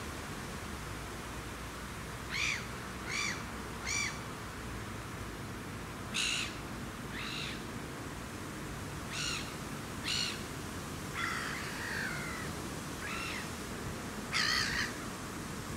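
Bird calls: a scattered series of about ten short, sharp calls a second or so apart over a steady background hiss. One call falls in pitch about two-thirds of the way through, and the loudest, a doubled call, comes near the end.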